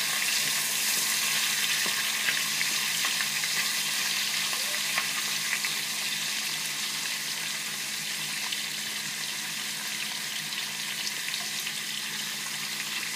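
Shrimp frying in hot oil just after being added to the pan: a steady sizzling hiss with small scattered pops that slowly eases off.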